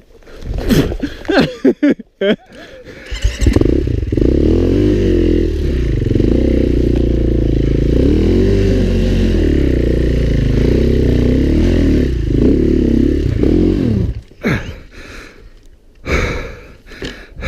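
Dirt bike engine revved in short, irregular blips for the first few seconds, then held at high revs for about ten seconds with the pitch wavering up and down. The engine drops away abruptly near the end, followed by a few short revs and clattering.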